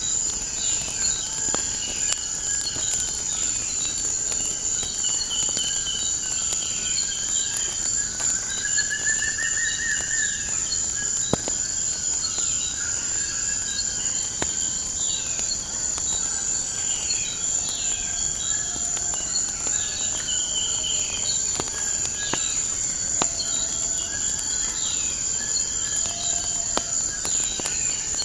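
A steady, high-pitched chorus of crickets, with birds chirping over it in short falling notes repeated every second or so, and scattered sharp crackles from a wood fire.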